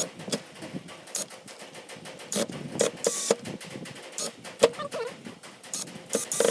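Irregular knocks, clicks and short scrapes of wooden pieces being handled and worked by hand, with a few brief squeaks.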